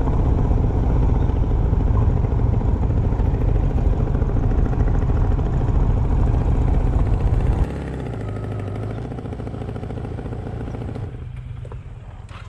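Motorcycle riding along, with engine and wind noise on the rider's microphone. About eight seconds in the sound drops suddenly to a quieter, steady engine hum like an idle.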